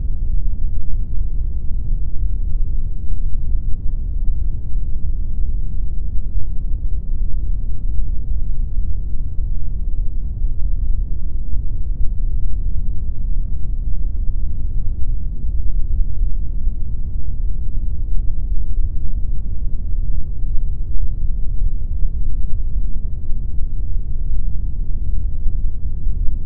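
Steady synthetic pink noise: a continuous, unchanging rush weighted heavily toward the low end, with hardly any hiss on top.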